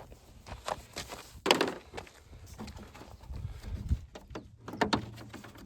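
Scattered clicks and clunks of hand tools and parts being handled during work on a car's front end, with a louder knock about one and a half seconds in.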